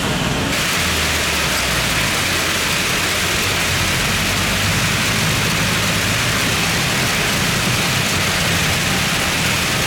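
Heavy rain falling, a steady loud hiss, with a low rumble underneath.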